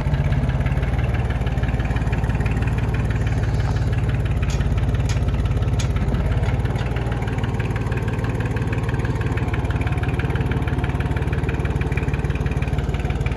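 Tractor engine running steadily with an even firing rhythm. A few faint clicks come through about halfway through.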